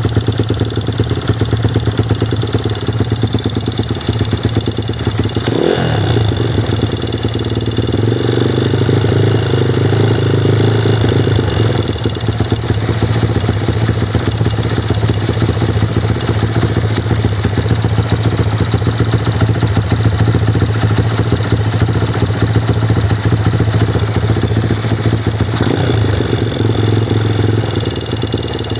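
Engine running with a repetitive knock, which the owner suspects is a piston pin (wrist pin) knock. The revs change briefly about six seconds in.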